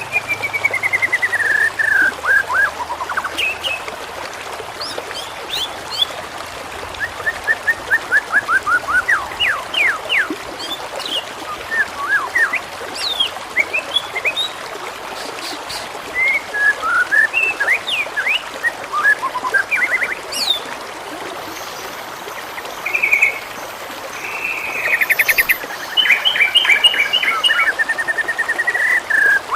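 Songbirds singing a varied series of phrases: fast trills that slide downward, quick rising chirps and short whistles, repeated every few seconds over a steady background hiss of trickling water.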